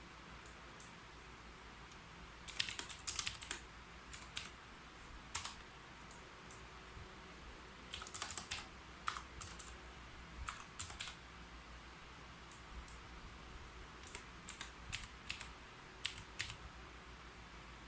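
Keyboard typing in irregular short runs of keystrokes with pauses between them.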